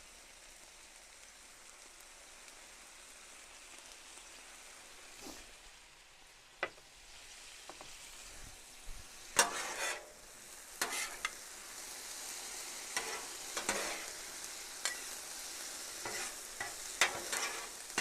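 Chicken, vegetables and noodles sizzling on a griddle, a steady high hiss. From about halfway on, a spatula scrapes and clacks across the griddle as the food and the freshly added sweet and sour sauce are stirred together.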